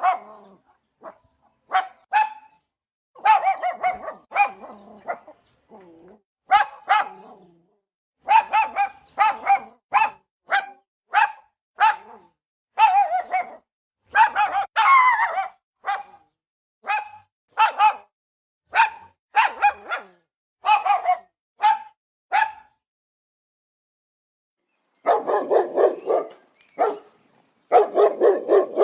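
Big dogs barking: a long series of short, separate barks, some coming in quick runs. The barking stops for a couple of seconds near the end, then starts again lower and more densely.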